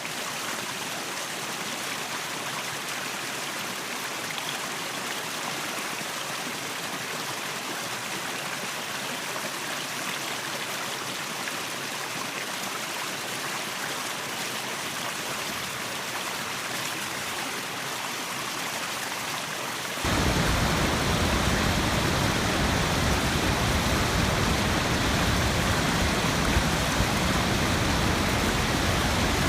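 Steady rush of falling water from a waterfall and stream. About two-thirds of the way through it turns suddenly louder and deeper, fuller in the low end, and stays that way until the end.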